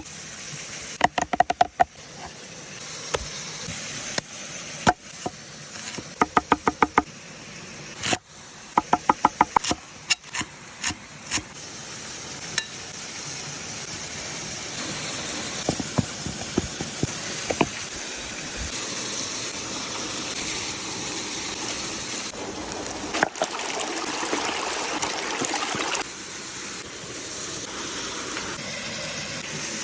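Several short bursts of rapid knocking, like knife chopping on a wooden cutting board. From about twelve seconds in, a steady hiss of food frying in a hot pan builds up, then cuts off suddenly near the end.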